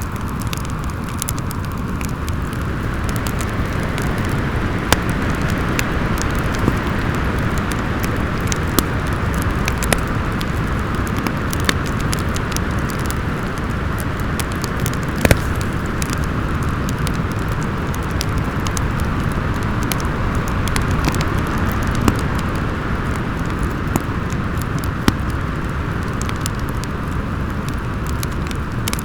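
Wind howling steadily with a low rumble, over a wood fire crackling with scattered sharp pops, one of the loudest about halfway through.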